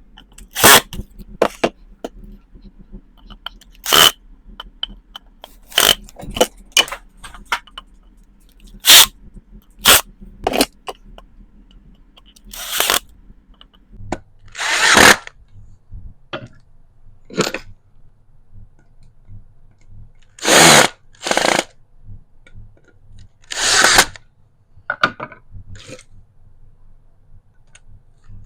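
Power drill run in short bursts of about a second or less, with sharp knocks and clicks in between.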